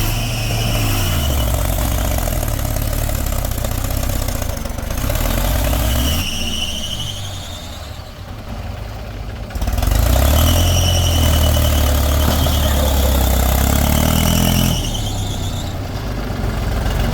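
JCB 3DX backhoe loader's diesel engine revving up and down as the machine works, with a high-pitched squeal from the machine three times, the longest in the second half while the engine runs hardest.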